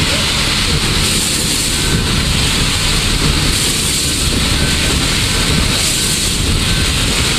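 Cab noise on the footplate of a PKP Ol49 steam locomotive under way: a steady heavy rumble, with a high hiss that swells and fades every couple of seconds.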